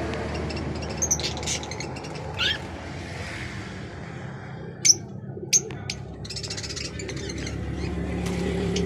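Caged aviary birds chirping and calling in short sharp notes, with a brief rapid trill near the end, over a steady low hum.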